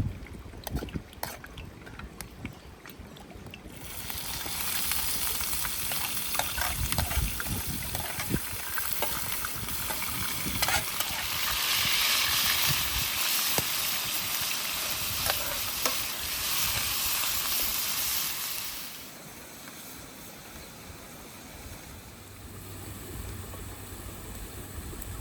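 Food frying and sizzling in a pan, with clicks and scrapes of stirring. The sizzle starts about four seconds in, is loudest in the middle and dies down a few seconds before the end.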